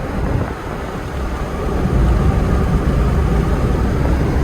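Mitsubishi Pajero turbo diesel driving at highway speed, heard from inside the cabin: a steady low engine and road rumble that grows louder about halfway through.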